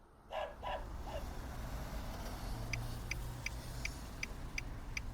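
A dog barks three short times, fading, in the first second. After that comes a low traffic hum, and from about halfway in a steady run of short, high ticking beeps, about two and a half a second.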